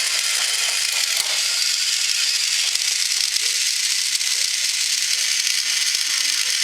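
Battery-powered toy trains running on plastic track: a steady, high hissing whir of small motors and wheels.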